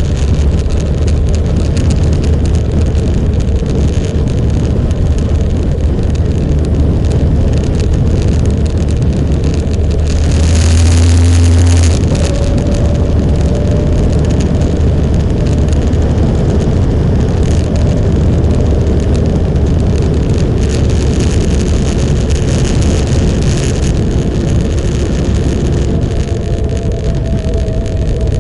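Motorcycle on the move: a steady low engine drone with a continuous rush of road and air noise over it, swelling briefly about ten seconds in.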